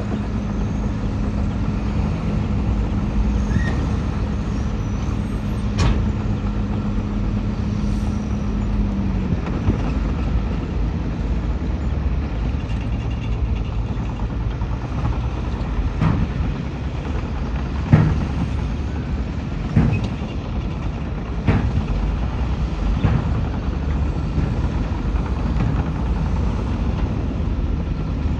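Heavy diesel earthmoving machinery running steadily, with a held engine note that drops away about nine seconds in and a handful of sharp clanks scattered through the rest.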